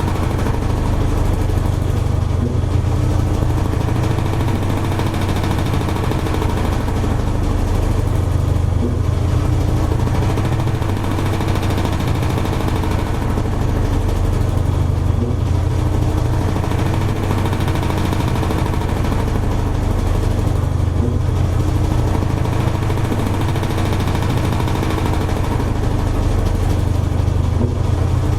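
Toshiba AW-42SEE4 fully automatic washing machine running with a steady, loud motor hum and a slow swell and dip about every six seconds.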